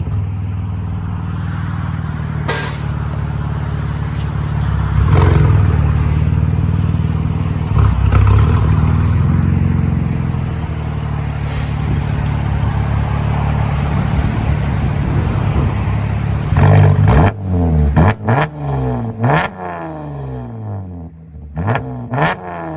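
Chevy Camaro 3.6L V6 on a true-dual exhaust with Dynomax Race Bullet resonators in place of the muffler and quad tips. It runs steadily with a couple of swells in revs, then is revved in several quick blips near the end.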